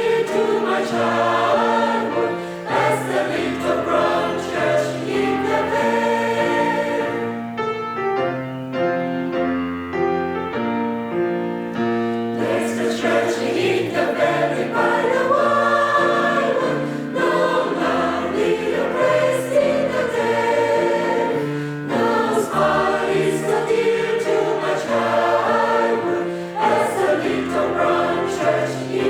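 Choir singing a Christian song in several-part harmony. The sound thins for a few seconds, about eight seconds in, before the full choir returns.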